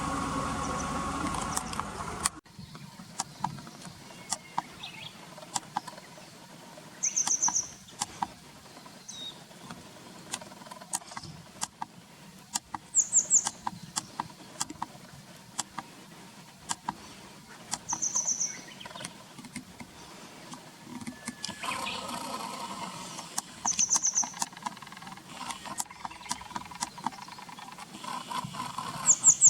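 Grey wagtail calling: short, high, sharp call phrases of a few quick notes, repeated about every five to six seconds. A steady hum sounds underneath at first and stops about two seconds in, returning faintly later.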